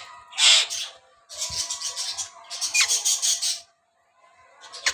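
Alexandrine parakeet giving raspy, chattering vocalisations in three bursts, then a few sharp clicks near the end.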